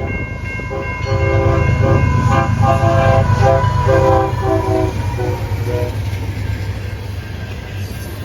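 Norfolk Southern diesel locomotive sounding its multi-chime air horn in a string of short, broken blasts while the engine's heavy low rumble swells as it passes. The horn stops about six seconds in, and the rumble of the train continues.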